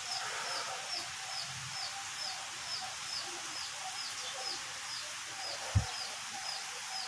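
A small bird chirping over and over, a short high note about twice a second, with a single dull thump about three-quarters of the way through.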